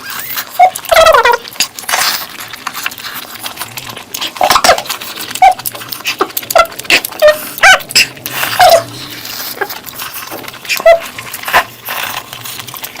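Close-miked eating mouth sounds: wet chewing and lip-smacking, a rapid irregular run of sharp clicks with short squeaky squeaks mixed in.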